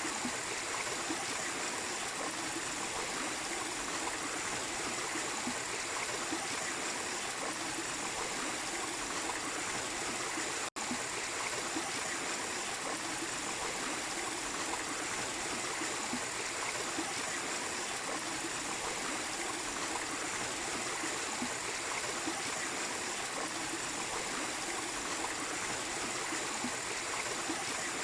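A small waterfall and stream running steadily, water splashing and flowing without a break except for a momentary dropout about ten seconds in.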